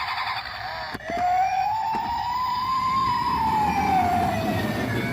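Emergency-vehicle siren wailing in one slow rise and fall, starting just after a click about a second in.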